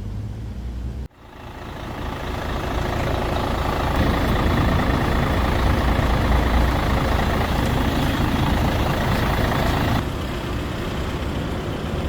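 Motor vehicle on the move: a steady engine and road noise that swells over the first few seconds after a sudden cut, holds, then changes abruptly and drops a little about ten seconds in.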